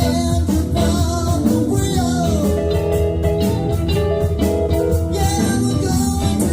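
Live band playing a blues-rock song with electric guitar, bass and drums, and a singing voice.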